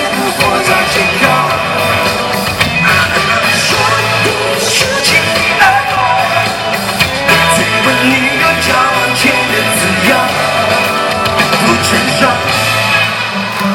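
Live pop-rock band music with a steady beat, with singing and shouted vocals over it.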